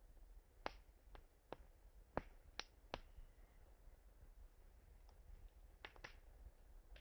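Burning wood in a campfire crackling: sharp, irregular pops, several in the first three seconds, a lull, then a few more near the end, over a faint low background.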